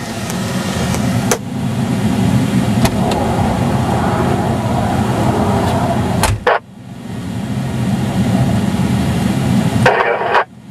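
Car idling with a steady low hum. A car door shuts with a sharp bang about six seconds in, and there is a lighter knock about a second in and another short clunk near the end.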